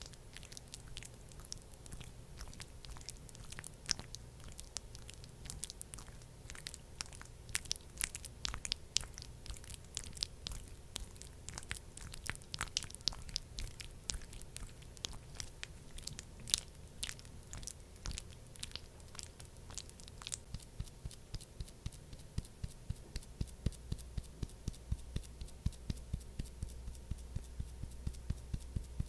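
Close-miked sticky, crackling clicks of a thick skincare product being worked between fingers or over skin, irregular at first, then settling into an even run of about two to three pats a second near the end.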